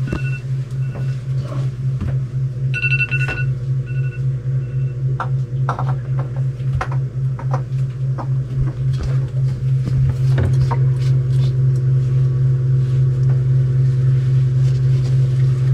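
Steady low hum of running engine-room machinery with a fast pulse, getting a little louder about ten seconds in. A high electronic beep sounds several times near the start and again around three to five seconds in, over scattered clicks and rustles of hands working.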